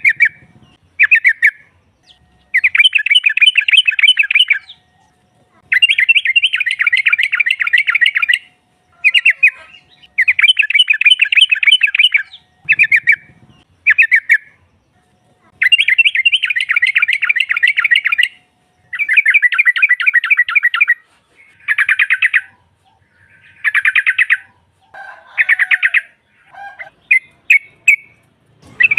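Yellow-vented bulbul (trucukan) calling in rapid chattering trills, in bursts of one to three seconds separated by short pauses, the bursts growing shorter near the end. A faint steady hum runs underneath.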